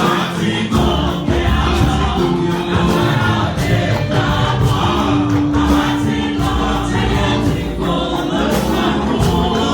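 A church choir singing a gospel anthem with instrumental accompaniment and a steady beat.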